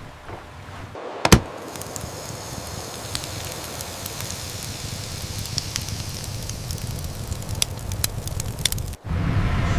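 Added sound effect of a motorboat running fast over water: a steady low engine rumble under a hiss of spray. There is a sharp crack about a second in, scattered clicks later, and a louder rumble after a brief drop near the end.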